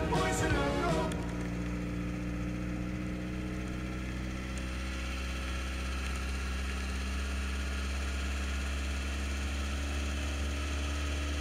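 A car engine drones steadily while the car drives along, its pitch holding level. Music ends about a second in, and the sound cuts off abruptly at the end.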